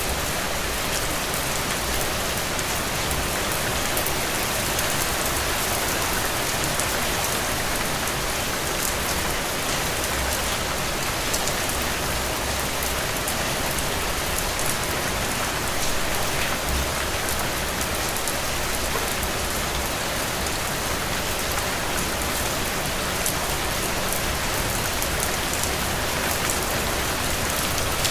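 Heavy, steady rain falling on soil and puddles, an even hiss with scattered drop splashes.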